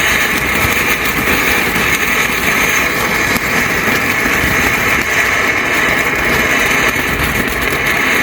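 A TNT 'Old Sparky' box fountain firework burning, a steady loud hiss of spraying sparks with dense crackling throughout.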